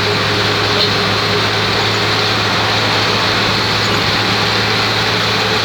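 Bus engine droning steadily over continuous road and tyre noise, with no change in speed or pitch.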